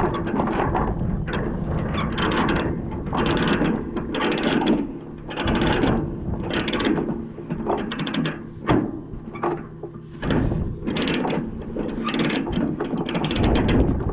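Ratchet chain binder being cranked to tighten a tie-down chain, its pawl clicking in repeated strokes about once a second.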